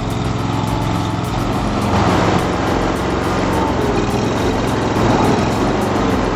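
Log splitter's small engine running steadily, a loud, even machine noise.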